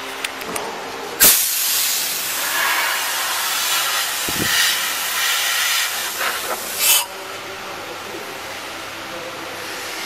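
Compressed air hissing loudly at a CNC engraving machine. It starts suddenly about a second in, runs for about six seconds and ends in a short louder burst, over the machine's steady running.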